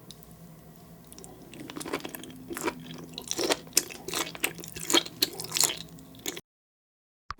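Close-miked seafood eating: wet, crunchy bites and chewing with many sharp clicks and crackles, typical mukbang ASMR mouth sounds. The sound cuts off suddenly, and just before the end a single short 'plop' sound effect with a brief ringing tone is heard.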